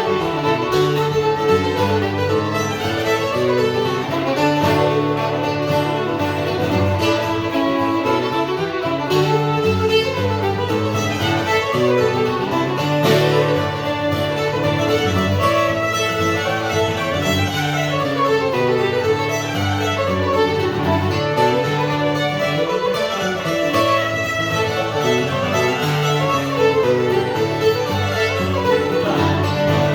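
Old-time string band playing a fiddle tune: fiddle leading over guitar accompaniment.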